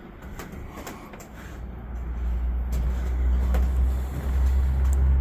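Low engine rumble of a passing road vehicle, growing steadily louder from about a second and a half in, with a few faint clicks before it.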